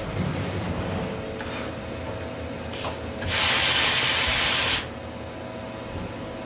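CNC tool grinder running with a steady hum, then a brief hiss and, about three seconds in, a loud spraying hiss that lasts about a second and a half and cuts off sharply.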